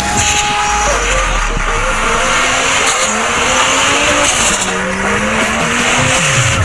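Monster truck engine revving hard, its pitch rising and falling repeatedly over loud, noisy background sound.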